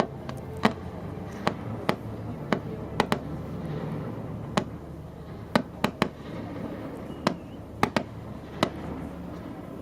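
Fireworks going off over a lake: about fifteen sharp bangs at irregular intervals, some in quick pairs, over a steady low hum.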